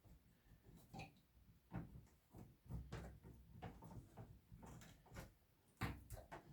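Faint scattered clicks and knocks of small parts and tools being handled.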